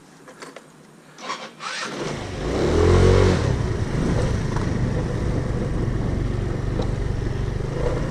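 A car engine starting about two seconds in, revving briefly as it catches, then idling steadily. A few light clicks come before it.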